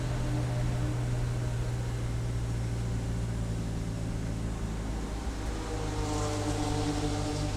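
Race car engine running hard and steady, its note sliding down and back up again about six seconds in.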